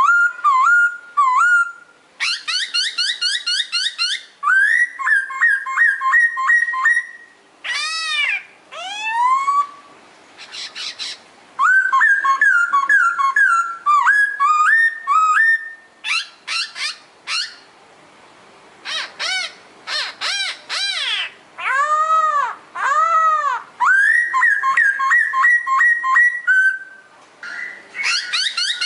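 Pokho songbird singing a loud, varied song of clear whistled phrases, fast repeated notes and swooping up-and-down calls, with short pauses between phrases.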